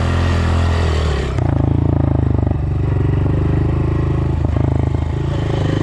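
Dirt bike engine running as the bike is ridden. About a second and a half in the note changes to a louder, pulsing throttle.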